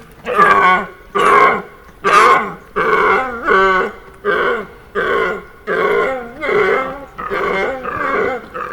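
An animal calling over and over: about a dozen short, pitched calls, each about half a second long, coming a little faster than one a second.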